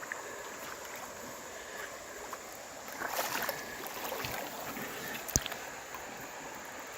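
Creek water running, with splashing from someone wading through it, loudest about three seconds in. A single sharp knock a little after five seconds.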